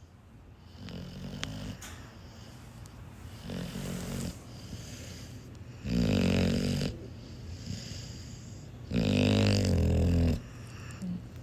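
A sleeping dog snoring: four snores spaced about two to three seconds apart, the last two longer and louder than the first two.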